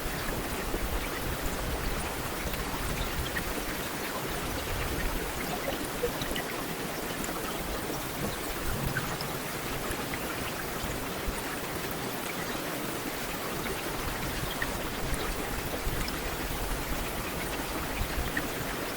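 Heavy rain falling steadily on a hard street surface, a dense even hiss with scattered individual drop ticks.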